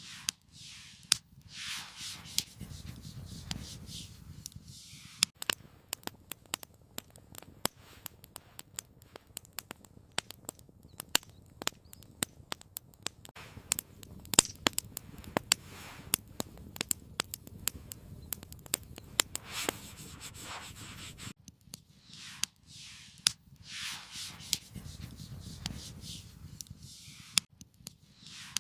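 Campfire crackling with many sharp, irregular pops, joined by a longer rubbing, rushing noise in the first few seconds and again near the end.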